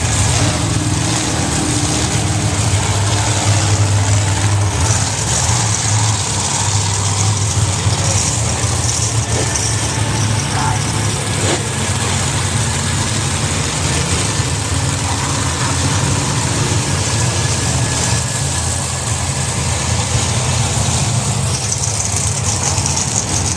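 Monster truck engines idling together after being started, a steady low rumble.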